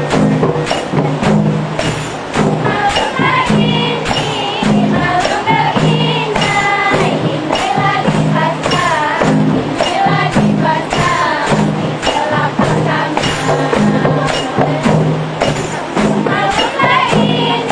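Rebana frame drums beating a steady rhythm, with a group of voices singing over them.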